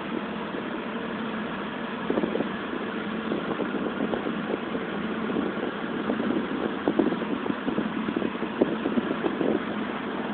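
Toyota Supra's engine idling, heard from inside the cabin, with an uneven pulsing that grows louder from about two seconds in until near the end.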